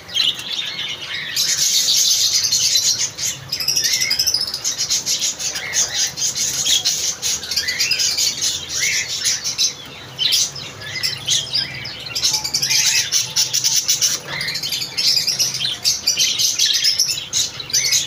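Many small cage birds in an aviary chirping and twittering continuously, a dense chorus of short, high-pitched calls.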